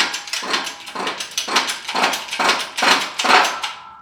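Shop press pressing a carrier bearing all the way onto a GM 8.2 differential carrier, heard as a run of short, noisy strokes about two a second, loudest near the end.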